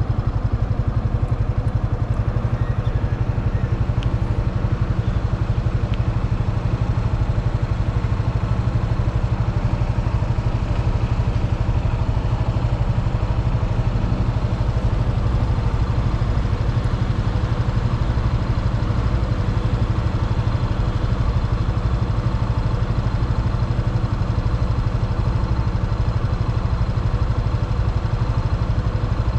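Motorcycle engine running steadily with an even, rapid exhaust pulse and no revving.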